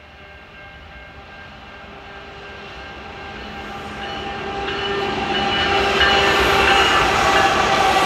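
CN freight train's diesel locomotives approaching and passing through a grade crossing, getting steadily louder until the lead units are alongside about six seconds in. Steady high tones sound throughout over the growing engine and wheel rumble.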